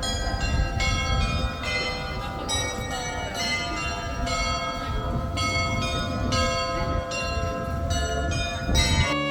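Church bells pealing, several bells struck in turn about two to three times a second, their tones ringing on over each other, over a low rumble of wind or street noise.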